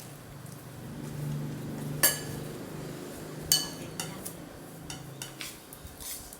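Spoon and cutlery clinking against a bowl while eating: two sharp ringing clinks about two and three and a half seconds in, then a few lighter taps, over a low steady hum.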